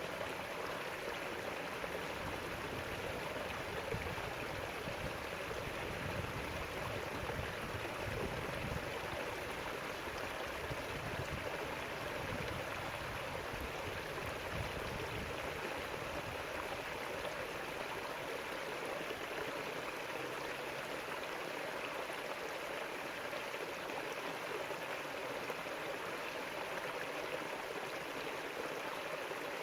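River water flowing and rushing over rocks, a steady even rush with a low rumble that fades somewhat in the second half.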